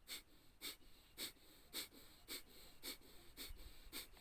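Kapalbhati pranayama breathing: short, forceful exhalations through the nose, each pushed out by snapping the stomach inward, repeating evenly about twice a second.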